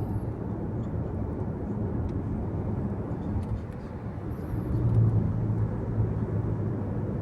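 Car cabin road noise while driving at speed: a steady low rumble of tyres and engine, with a low drone that swells briefly about five seconds in.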